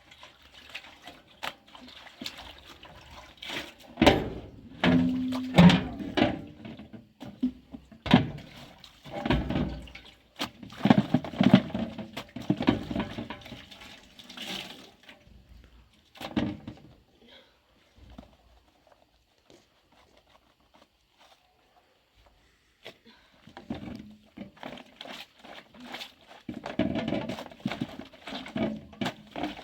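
Dishes being washed by hand: water splashing and pouring, with knocks of pots and dishes. It comes in uneven bursts and pauses for several seconds past the middle.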